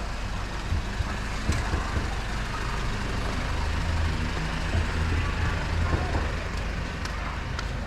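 Street traffic, with a heavy vehicle's engine running close by as a steady low rumble, and a few light knocks.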